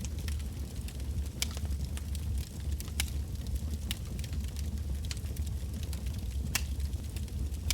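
Wood fire burning, with a steady low rumble and sharp crackles and pops at irregular intervals as the logs snap.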